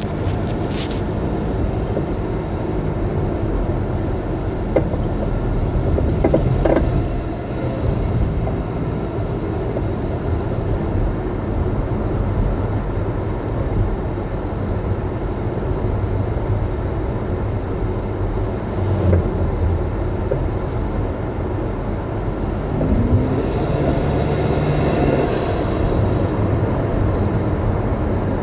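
2008 Acura RDX driving over bumps: steady road noise with a few sharp knocks scattered through, a suspension knock the owner suspects comes from the front end.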